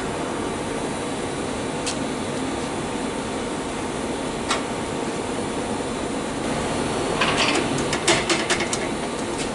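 Steady shop background hum with a couple of single sharp clicks, then a quick cluster of clanks about seven to nine seconds in, as the exhaust pipes are pushed and twisted into place.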